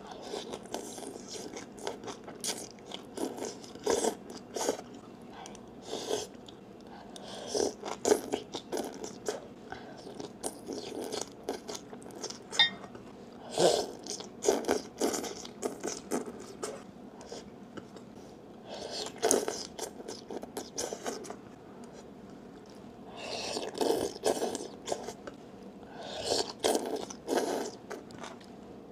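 Close-miked crunching and chewing of boiled green vegetable stalks, with the stems slurped into the mouth, in irregular clusters of short crisp bites.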